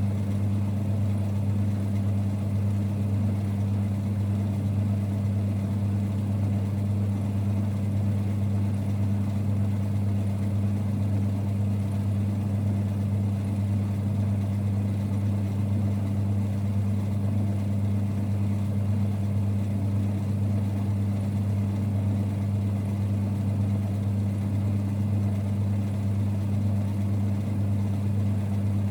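1946 Boxford lathe running with a steady low rumble, a constant hum with no knocks or changes.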